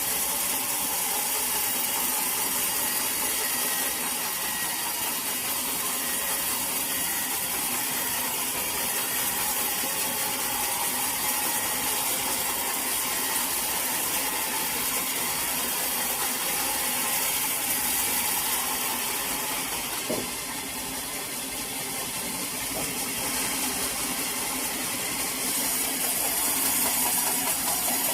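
Sawmill machinery running steadily, a continuous mechanical noise with a strong hiss, easing off slightly about twenty seconds in.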